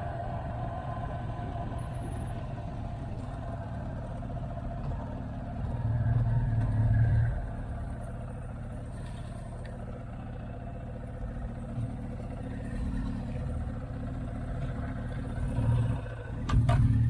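Motorcycle engine running steadily while riding, with a continuous low rumble that swells louder for about a second around six seconds in and again near the end, plus a few sharp clicks just before the last swell.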